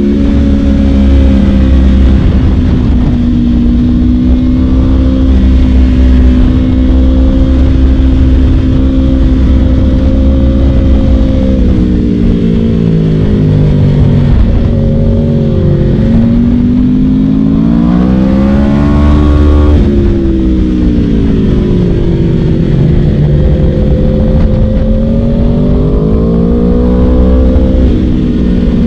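Aprilia RSV4's V4 engine through an Akrapovic Shorty exhaust, ridden at fairly steady revs for the first dozen seconds. The engine then eases off, revs up sharply and falls away again around two-thirds of the way in, and climbs once more near the end.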